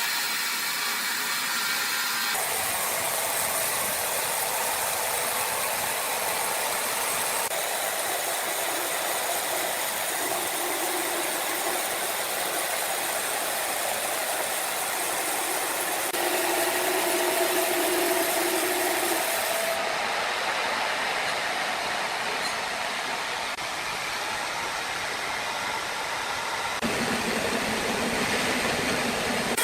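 Sawmill machinery running: a steady mechanical noise with a faint hum, changing abruptly a few times.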